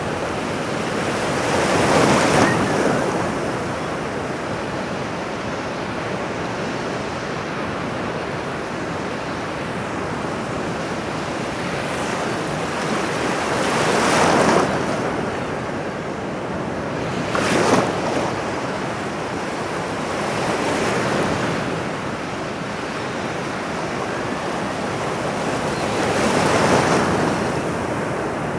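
Ocean surf: a continuous wash of waves on a shore, with about five louder breaking waves spread through it.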